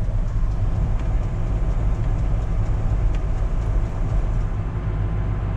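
Gleaner R72 combine running steadily under load, a constant low engine and machinery rumble heard from inside the cab, with the grain unloading auger running as it fills a grain box.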